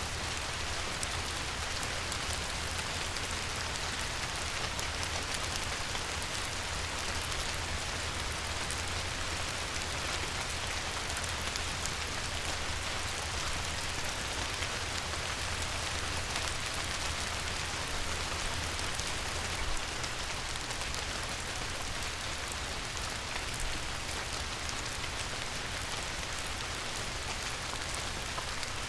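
Light rain falling steadily on a river, an even hiss of many fine droplet patters with a faint low rumble underneath.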